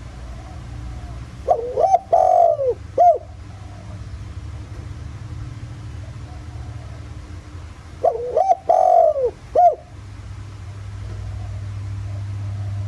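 Spotted dove cooing: two calls about six seconds apart, each a short run of three or four notes.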